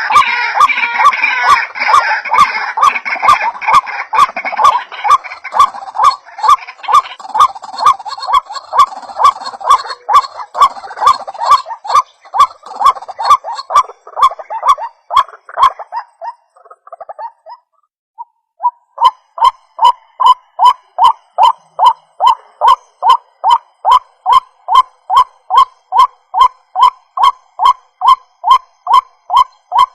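White-breasted waterhen (ruak-ruak) calling, a fast run of repeated croaking notes. For the first half several calls overlap in a busy chorus that fades out past the middle; after a short pause a single steady series resumes at a little over two notes a second.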